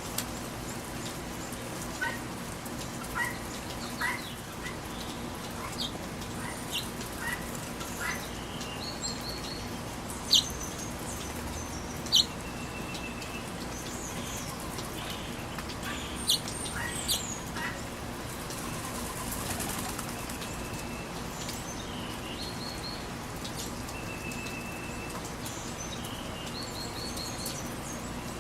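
Small birds chirping and calling around a backyard feeder over the steady hiss of rain, with short trills, brief whistled notes and a few sharper, louder calls scattered through.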